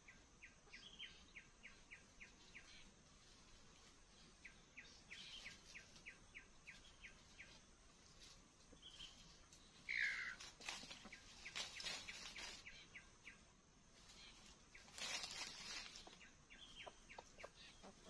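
Faint wild birdsong: repeated runs of quick ticking notes, with one louder short call falling in pitch about ten seconds in. A few brief rustling noises come in between.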